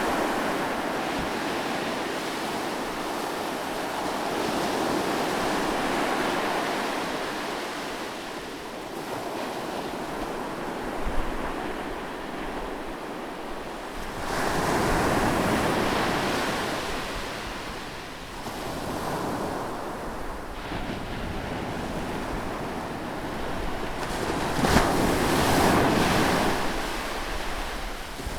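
Ocean waves breaking on a beach: a continuous rush of surf that swells twice, about halfway through and again near the end, with some wind.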